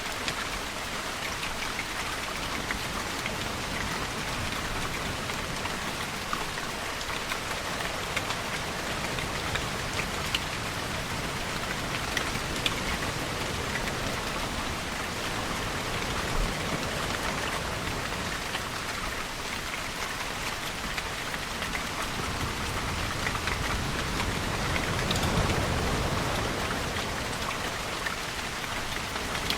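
Steady rainfall, with individual drops ticking on a surface. About three-quarters of the way through, a low swell rises and then falls away.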